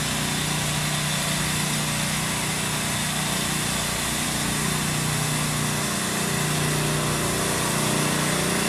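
A small engine running steadily, with a steady hiss over it; the pitch dips briefly about six seconds in.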